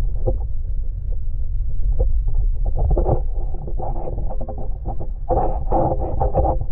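Wind buffeting the microphone: a heavy, uneven low rumble that rises and falls with the gusts.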